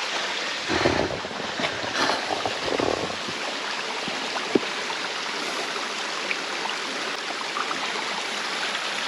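Small forest stream running steadily, with a few low bumps and rustles in the first three seconds and one sharp click about four and a half seconds in.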